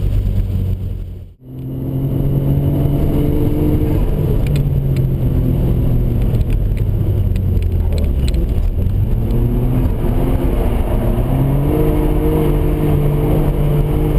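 Car engine heard from inside the cabin while lapping a circuit, its pitch falling through the middle and climbing again near the end as the driver lifts off and accelerates. The sound drops out sharply for a moment about a second and a half in.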